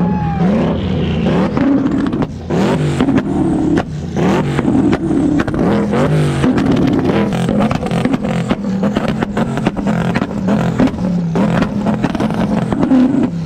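Loud vehicle engines revving hard, their pitch rising and falling over and over, mixed with many sharp cracks.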